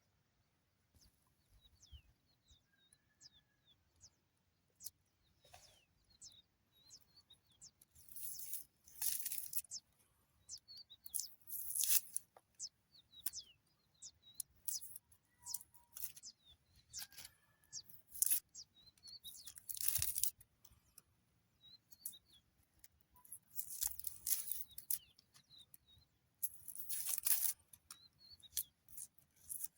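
Repeated bursts of rustling and crinkling with small clicks, about a second each, heard close by. Birds chirp briefly throughout.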